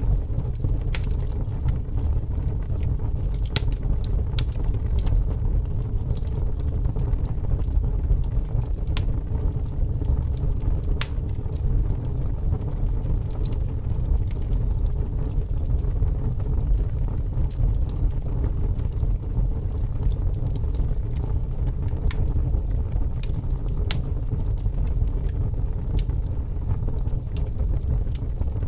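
Fire burning, with a steady low roar and scattered sharp crackles and pops at irregular intervals.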